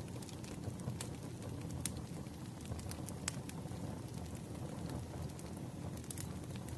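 Wood fire burning: a steady low rumble with a few sharp crackling pops.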